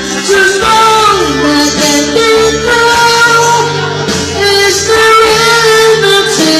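A man singing a song over backing music, holding long, sustained notes.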